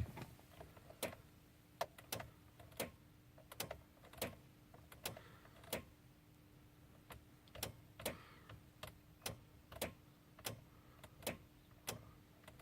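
2011 VW Jetta 2.5's starter clicking again and again at uneven gaps, about one to two clicks a second, without the engine cranking, over a faint steady hum. The starter clicks but does not turn over despite a good battery, a fault that has returned after two starter replacements.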